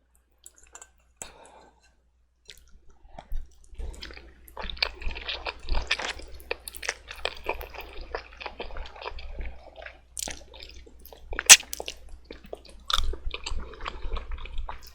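Jajangmyeon noodles being stirred together with black bean sauce and an egg yolk: sticky, wet squishing and squelching that begins about three seconds in, with scattered sharp clicks, the loudest one a little past the middle.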